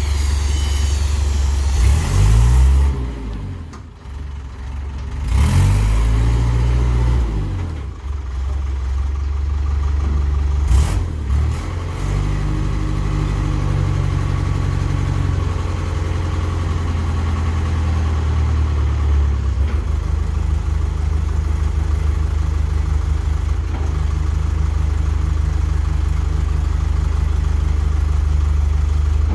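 Diesel engine of a Thwaites 6-tonne site dumper running. It is revved up and down a couple of times in the first several seconds, then settles into a steady idle.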